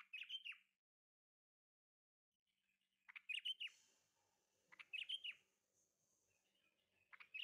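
A small bird chirping in four short bursts of quick, falling notes, a couple of seconds apart.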